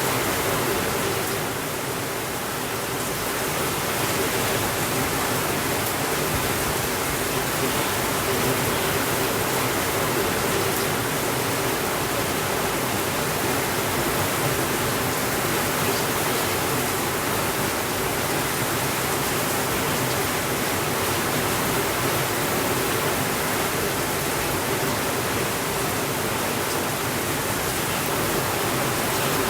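Steady rainfall, a dense, even hiss without breaks, dipping slightly about two seconds in.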